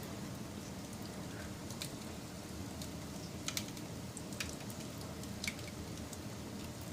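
Wood fire burning with a steady low rumble and a few sharp crackling pops, the loudest about halfway in.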